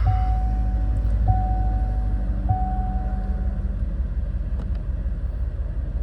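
2008 Corvette LS3 6.2-litre V8 idling steadily just after starting, a low, even rumble. A steady high whine sounds along with it for about the first three seconds, then stops.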